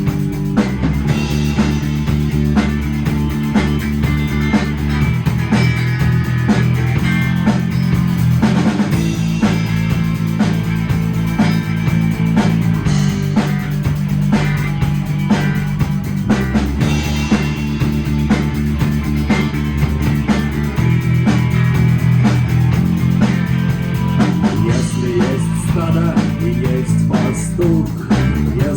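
Instrumental rock music with no singing: guitar over bass and a drum kit, with held bass notes changing every few seconds.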